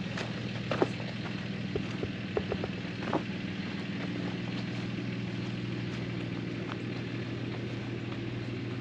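Pickup truck engine running steadily at low revs. A few brief, faint higher sounds come over it in the first few seconds.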